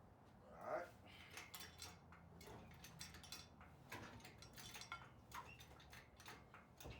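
Faint, scattered metallic clinks and taps of shop work on a truck during an engine removal, with one brief louder scrape or squeak about a second in.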